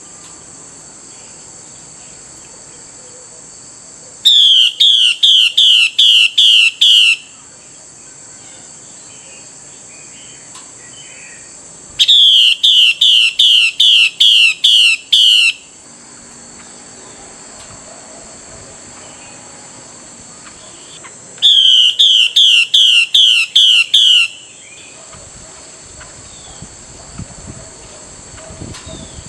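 Female Chinese hwamei calling: three bouts of about eight quick, loud, falling notes each, several seconds apart. This is the call that keepers use to rouse a male hwamei to sing. A steady high-pitched hiss runs underneath.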